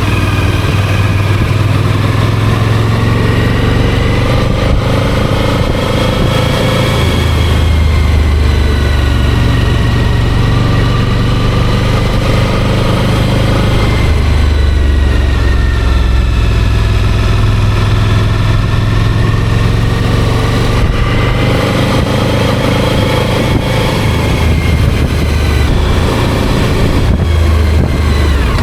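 Motorcycle engine running under way, its note rising and falling several times as the throttle opens and closes, over a steady low rumble.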